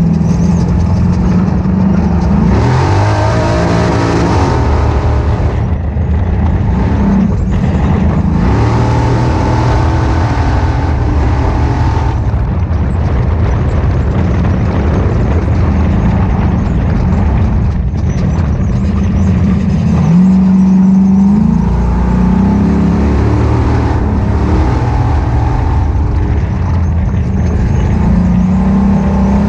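Ultra4 off-road race car's engine running hard at race pace, its pitch climbing and dropping several times as it accelerates and lifts off, with bursts of rushing noise over it.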